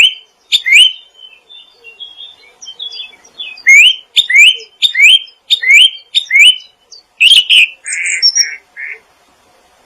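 Songbird singing: a run of loud rising whistled notes, about two a second, with softer twittering in between. Near the end come three harsher buzzy notes.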